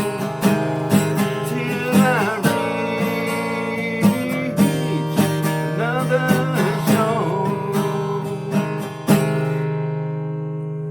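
Acoustic guitar playing the closing bars of a folk song, strummed and picked, ending on a final chord about nine seconds in that is left to ring out.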